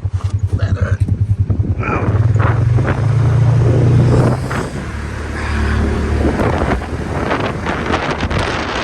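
A motor vehicle's engine running with a low rumble. It pulses at first, holds a steadier, higher note from about two seconds in, and drops back a little after four seconds.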